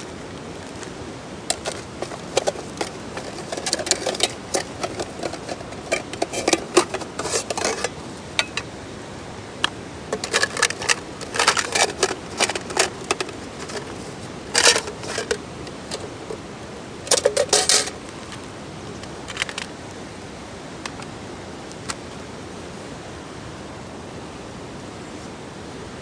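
Irregular clusters of sharp clicks and clatter, some with a short ring, over a steady hiss; the clatter stops about two-thirds of the way through.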